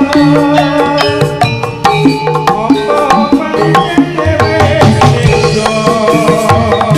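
Live Javanese jaranan ensemble music for a Turonggo horse dance: hand drums beating a busy rhythm under sustained and repeated pitched melodic notes.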